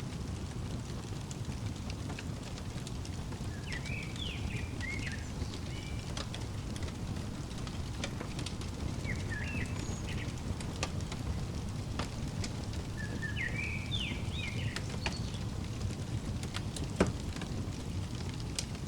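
Wood fire crackling in a fireplace: a steady low rumble with scattered sharp pops, the loudest near the end. A bird chirps three short quick phrases over it, about 4, 9 and 14 seconds in.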